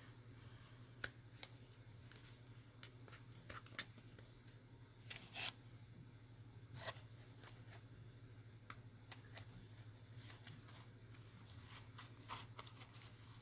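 Faint handling sounds of paper and waxed linen thread during bookbinding: scattered soft clicks and rustles, a few louder ones near the middle, over a steady low hum.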